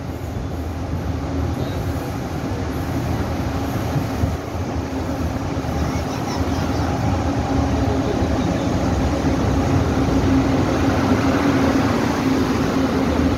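Train running with a steady droning hum and rumble that slowly grows louder.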